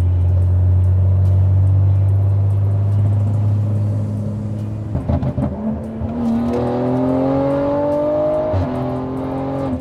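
Car engine with a steady low drone, then a rough patch about five seconds in. After that the engine note rises steadily as the car accelerates, with a short break in the rising note near the end.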